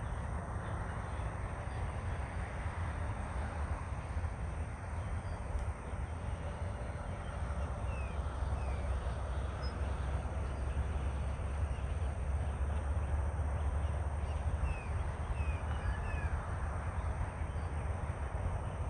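Wind buffeting the microphone as a steady low rumble, with birds giving a few short calls: a pair about eight seconds in and a group of three near fifteen seconds.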